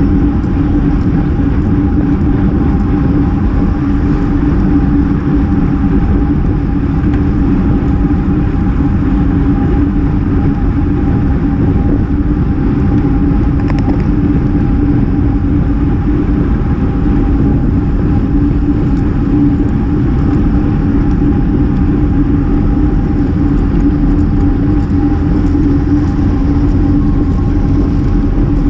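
Wind rushing over the microphone of a GoPro on a road bike ridden at race speed: a loud, steady rumble with a constant hum under it.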